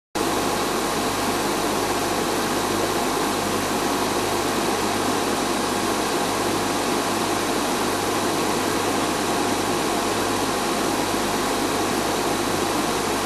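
An engine idling: a steady hiss with a low, even hum that does not change.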